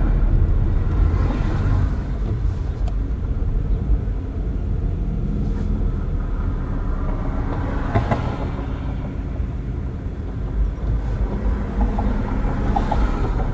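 Car interior road noise with the windows open: a steady low rumble of tyres and wind, with a brief sharper click about eight seconds in.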